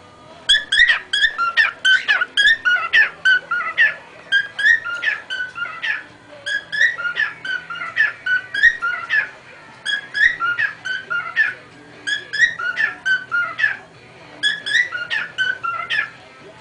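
Cockatiel whistling its song in quick, chirpy phrases of pitched notes, with short pauses between phrases.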